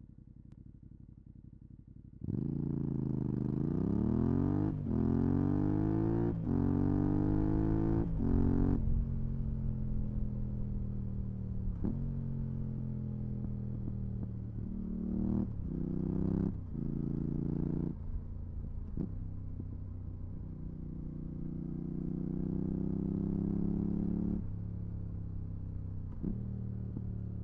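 Yamaha R7's 689 cc parallel-twin engine through a full Mivv GP Pro exhaust with dB-killer. About two seconds in it pulls hard and rises through several quick upshifts, then eases off with more gear changes, revs up again and cuts back near the end.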